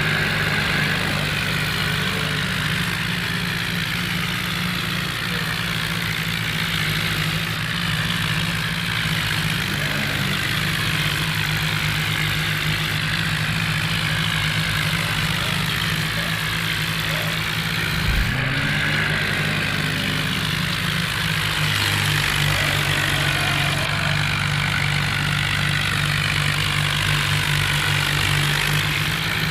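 Diesel tractor engine running steadily at a constant speed, with a brief thump about two-thirds of the way through.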